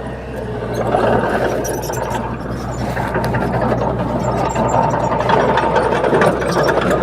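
Bulldozer's diesel engine running steadily under dense, fast metallic clatter and rattling, getting a little louder about a second in.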